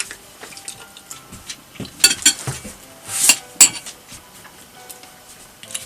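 Cutlery clinking and scraping against a cooking pot and dishes while eating: a few sharp clinks with brief ringing, and a short scrape just after three seconds in.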